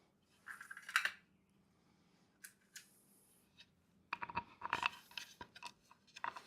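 Light clicks, ticks and scrapes of small hardware being handled: a machine screw and door knob being picked up and fitted to a wooden hive door. There is a short cluster of clicks early, a few faint ticks, then a busier run of small clicks in the second half.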